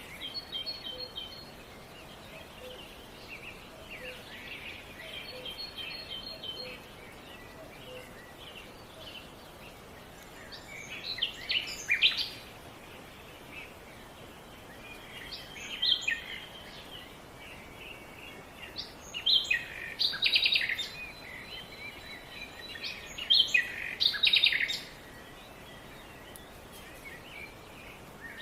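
Wild birds singing and chirping over a steady outdoor background hiss, soft twittering at first, then louder phrases of song every few seconds.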